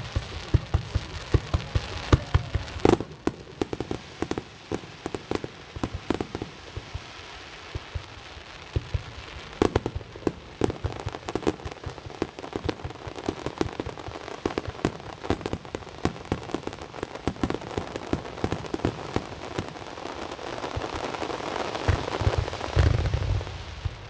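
Fireworks display: a dense, continuous crackling and popping of many small bursts, with deep booms of shells bursting in the first few seconds and again near the end.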